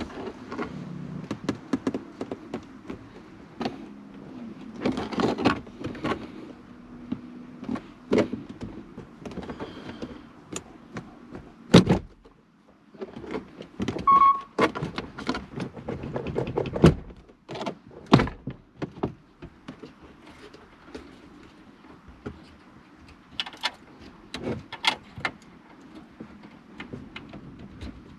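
Plastic interior dashboard trim of a Honda N-ONE being pried and handled during disassembly: irregular clicks, knocks and thunks of plastic panels and clips.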